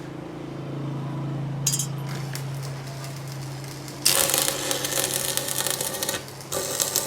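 A steady machine hum, then from about four seconds in loud metallic clattering and scraping of metalwork, broken by a short pause near the end.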